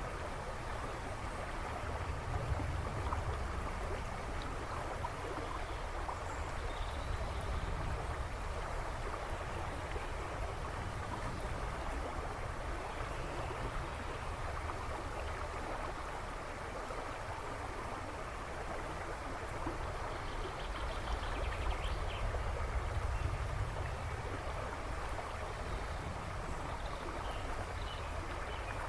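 A river rushing and babbling steadily over stones, with a deep low rumble under the splashing. Now and then a few birds chirp faintly in the woodland behind.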